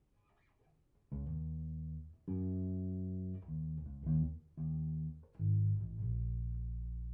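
Bass guitar played through a Fender Rumble 100 V3 combo amp, tuned down a half step: after a second's pause, a line of about six single notes, the last one held and left ringing.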